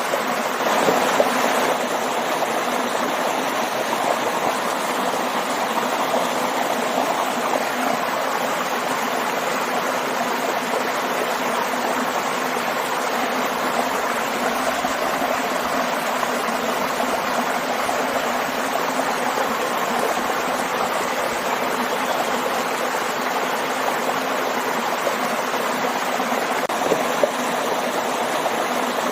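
Waterfall and stream water rushing and splashing in a steady, even wash.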